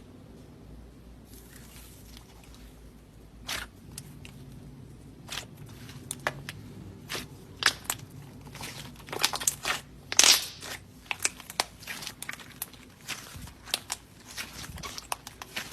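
Slime being handled and pressed, giving irregular crackling clicks and pops. They are sparse at first and thickest around the middle.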